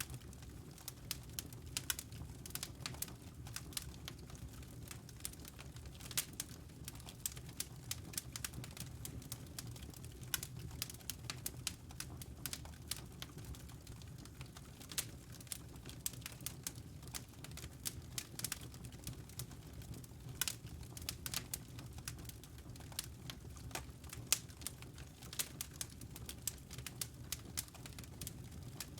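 Wood fire burning in a fireplace: irregular crackles and sharp snaps from the burning logs, dense throughout, over a steady low rumble of the flames.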